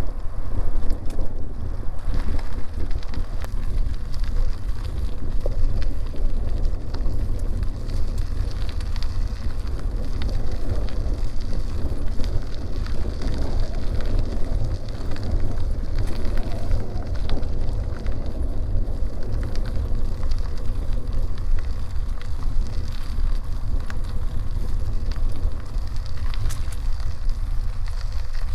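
Wind rumbling steadily on the microphone of a moving bicycle, over the grainy noise of the tyres rolling on a forest road, with scattered small ticks.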